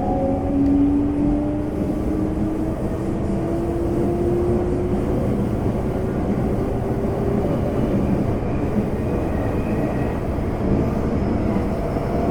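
Running sound inside a Semboku Rapid Railway 5000 series electric train, with a Hitachi GTO VVVF inverter and traction motors whining over steady wheel-on-rail rumble. The whine rises slowly in pitch as the train accelerates, then fades about halfway through.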